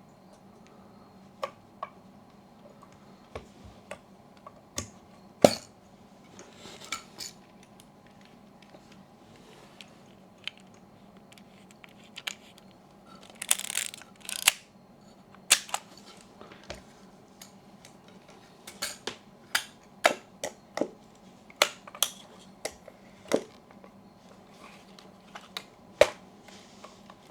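Yashica Electro 35 GSN rangefinder camera being worked by hand, its film advance wound several times and its back opened to check that it resets. The sound is a string of sharp mechanical clicks, with two short ratcheting rasps about halfway through.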